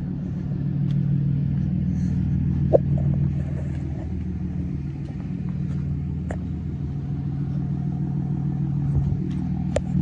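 A vehicle engine idling steadily, a low even rumble, with a few light clicks.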